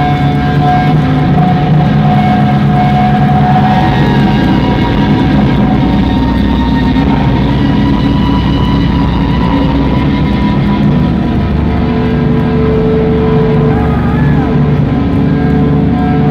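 Live rock band playing a loud, droning noise passage: distorted electric guitars with long held feedback tones that shift from one pitch to another.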